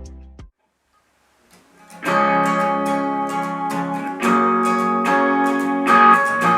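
Beat-driven music cuts off about half a second in; after a second of silence, a guitar starts strumming chords, the intro of a worship song, with a strum about once a second.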